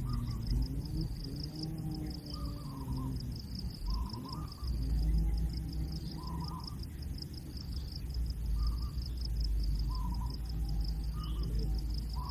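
Short bird calls repeated every second or two over a steady, pulsing insect chirr, with a low rumble underneath.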